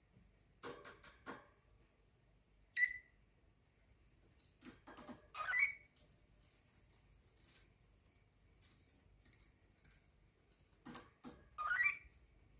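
Cockatiel giving three short, sharp chirps, the later two rising in pitch, with scattered light clicks and taps between them.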